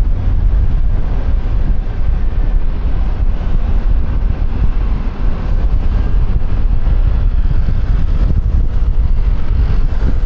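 Wind buffeting a helmet-mounted external microphone on a moving QJMotor Fortress 160 motorcycle, a steady loud rumble, with engine and road noise underneath.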